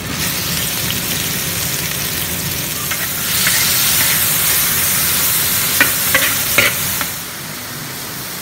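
Chopped ginger and minced aromatics frying in hot oil in a large wok: a steady sizzle that grows louder about three seconds in. Near the end come three sharp clicks, then the sizzle drops back to a lower level.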